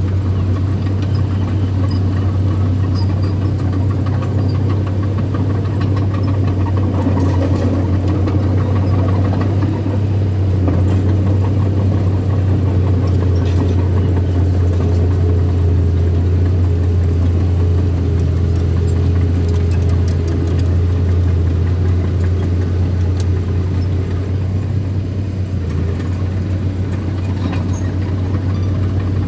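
Engine of earthmoving machinery running steadily at a low, even pitch with little change in speed, with faint scattered clicks and clanks over it.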